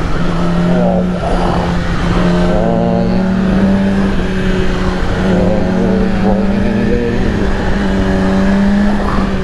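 Yamaha R6 inline-four sport-bike engine running at steady, fairly high cruising revs while riding, with wind noise rushing over the microphone.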